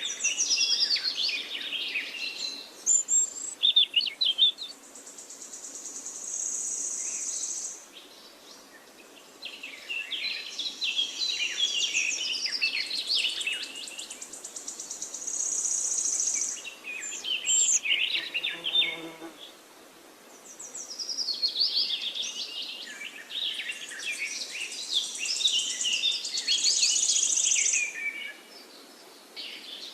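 Songbirds chirping and twittering in bouts of several seconds with short lulls between them, and a high, steady buzzing note about two seconds long that comes in several times.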